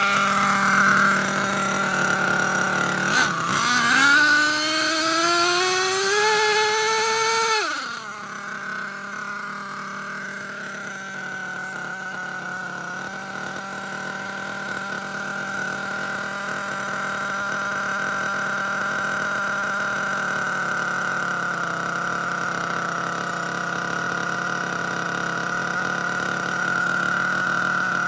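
Nitro RC monster truck's Force R36 5.9 cc two-stroke glow engine running. About three seconds in it revs up in a rising whine for about four seconds, then drops off sharply and settles into a steady high-pitched drone.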